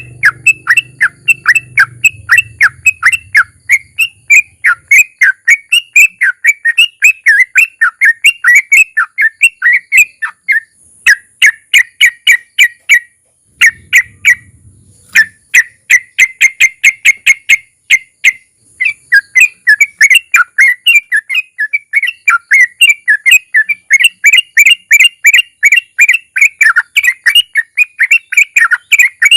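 Sooty-headed bulbul (trucukan) singing a long, rapid run of loud whistled notes, several a second, in the rolling 'ropel' style, with a short break about thirteen seconds in.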